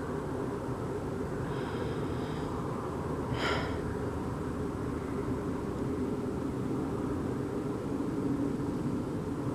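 A steady, low rumbling roar of unknown origin, like distant heavy machinery or aircraft, going on without a break. A brief high-pitched chirp cuts in once, about three and a half seconds in.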